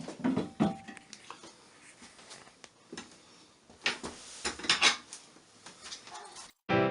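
Irregular clinks and knocks of hard parts and tools being handled while a toilet tank's flush mechanism is worked on, in two clusters, one at the start and one around the middle. Piano music starts just before the end.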